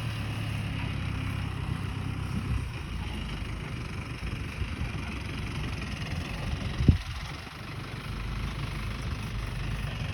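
Fiat 70-56 tractor's diesel engine idling with a steady low rumble, with a single sharp thump about seven seconds in.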